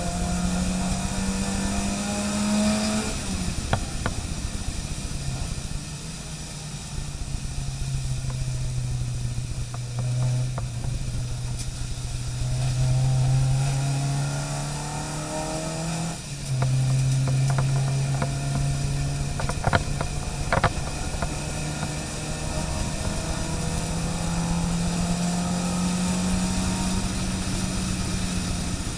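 Car engine pulling hard under load, its note climbing slowly and dropping suddenly several times as it shifts gear. A few sharp clicks or knocks are heard over it.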